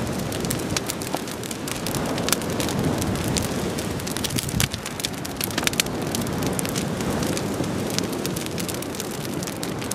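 A large driftwood bonfire burning with a steady rush, crackling and popping with many sharp snaps.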